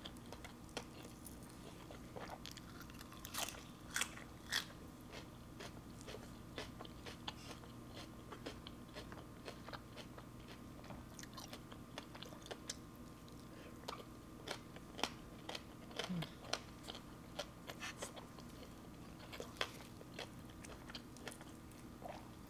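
Close-up eating sounds: crunchy bites and chewing of fresh leafy greens and grilled chicken wings, with many short sharp crunches scattered throughout. A faint steady hum lies underneath.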